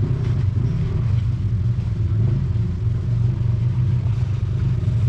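Off-road vehicle engine running steadily at low revs, a continuous low rumble.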